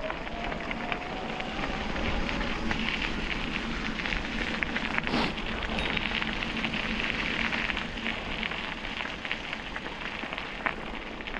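Bicycle tyres rolling along a canal towpath, a steady crackling noise.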